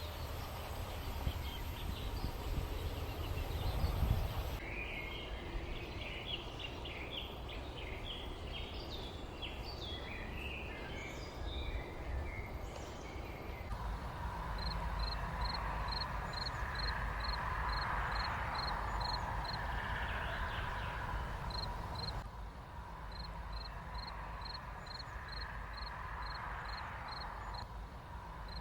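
Outdoor countryside ambience with a steady low background noise and small birds chirping in quick bursts. In the second half a short high note repeats about twice a second. The background changes abruptly a few times.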